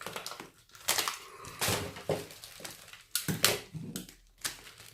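Irregular clicks, taps and short rustles of things being handled and taken out of their packaging.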